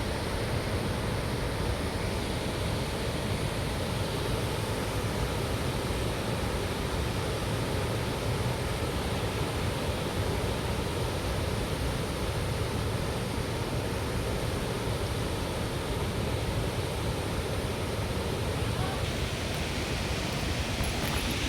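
Waterfall: a steady rush of falling water, with a little more hiss near the end.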